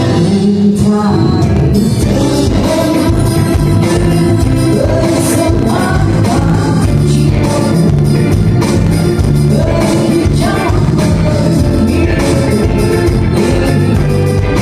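Live band music: a full band playing with a singer, amplified and loud, with a steady beat.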